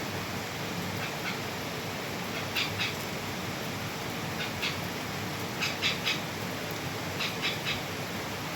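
Short high chirps from small animals, coming in twos and threes every second or so, over a steady hiss of background noise.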